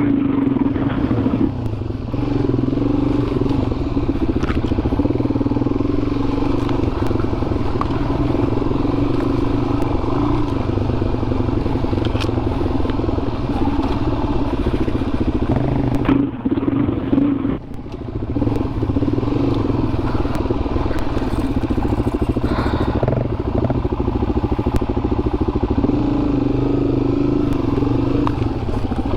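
Dual-sport motorcycle engine running steadily under throttle while riding a dirt single-track trail, with clatter from the bike over the ground. The engine eases off briefly a little past halfway, then picks back up.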